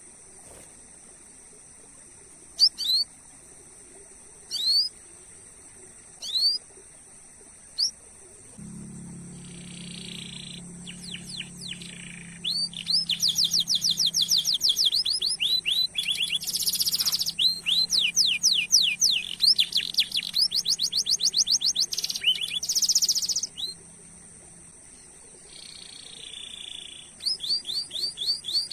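Domestic canary singing: at first single rising 'cuit' chirps about every two seconds, then from about halfway long, fast rolling trills mixed with buzzy notes, with a brief pause before the trills resume near the end.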